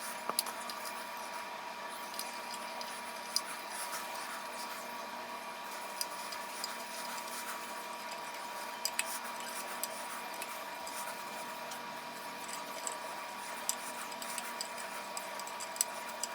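Soldering work on a metal part: scattered light clicks and small crackles of the iron and solder on the metal, over a faint steady hum.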